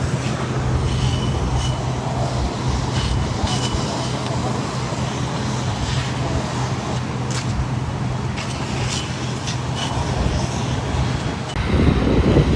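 Road traffic with a steady low engine hum, and a few short high beeps that come in pairs. About a second before the end, wind buffets the microphone.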